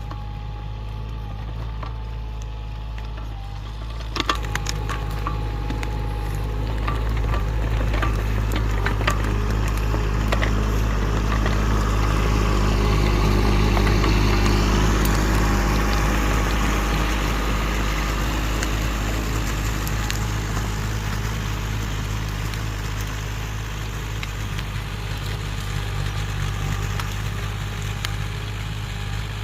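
An engine running steadily under load. From about four seconds in come a run of sharp cracks and snaps, and the noise swells through the middle before easing off.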